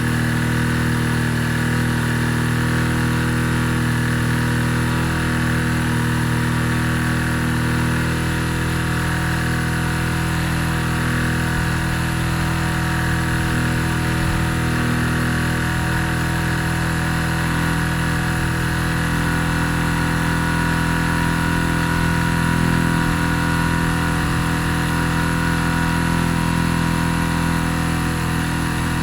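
Benelli Keeway 125 motorcycle engine idling steadily, left running to burn in a newly fitted exhaust wrap.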